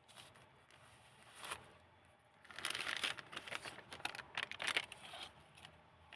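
Pages of a handmade junk-journal book made of old book paper being handled and turned: a faint rustle about a second and a half in, then a longer burst of crinkling and rustling paper in the middle.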